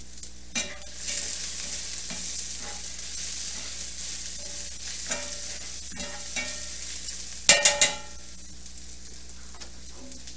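Onions sizzling in a hot cast iron skillet as they are turned with tongs. About three quarters of the way in there is a brief metallic clatter of a few quick clanks.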